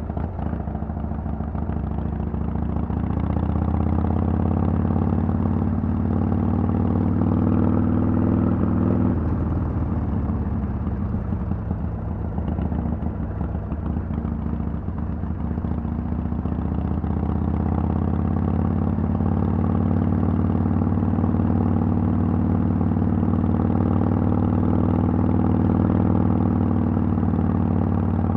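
Harley-Davidson Sportster XL883L's air-cooled 883 cc V-twin running through Vance & Hines Twin Slash slip-on exhaust pipes. The engine note climbs over the first few seconds, eases off a little before the middle and climbs again about two-thirds of the way through.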